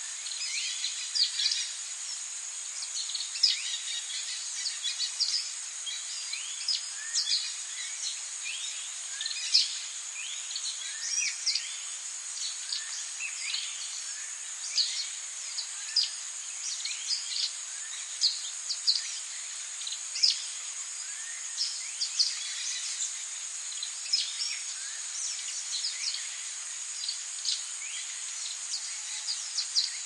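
Songbirds chirping and singing in many quick short notes, over a steady high-pitched hiss.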